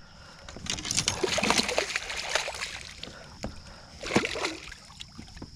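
A large hooked mudfish (bowfin) thrashing and splashing at the water's surface beside the boat as it is brought in. There is a long burst of splashing in the first half and a shorter one about four seconds in.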